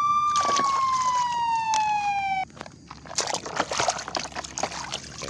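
A single police-siren wail, peaking and then gliding slowly down before cutting off abruptly about two and a half seconds in; then water splashing and sloshing as a muddy toy car is washed.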